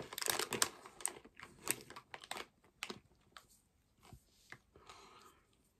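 Hard fried pork rind (pork scratchings) being crunched and chewed close to the microphone: a quick run of sharp crunches for the first two or three seconds that thins out to a few scattered ones.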